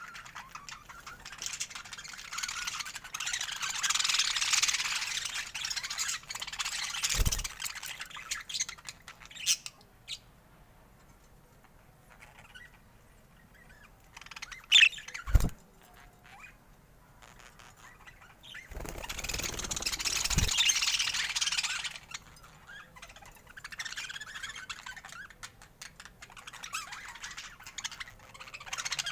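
Budgerigars chattering and warbling in bursts, with a quieter spell midway and two sharp knocks, one about seven seconds in and one about halfway through.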